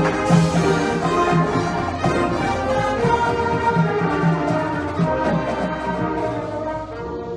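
A marching band playing: brass melody over repeated low notes, with drums and cymbals.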